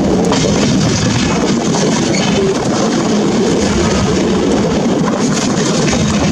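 Rajdhani Express passenger coach running along the track: a loud, steady rumble of wheels on rail, with a few sharp clacks as the wheels pass rail joints.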